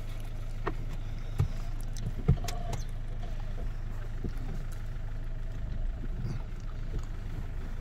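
A car engine idling steadily, with a few sharp knocks, the loudest about two seconds in.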